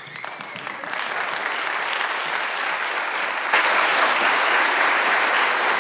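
Audience applauding in a school auditorium, the clapping building up and growing louder about three and a half seconds in.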